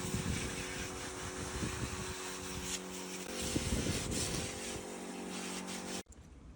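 A motor running steadily with a hiss over it, stopping abruptly about six seconds in.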